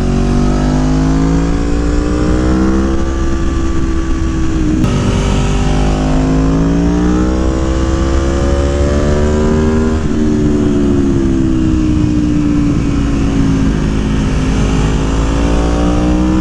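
Aprilia Tuono motorcycle engine, tuned with a Stage 3 engine kit, pulling hard under acceleration. The revs climb, break with a quick upshift about five seconds in, and climb again. They fall away from about ten seconds in, then rise once more near the end, over a steady rush of wind.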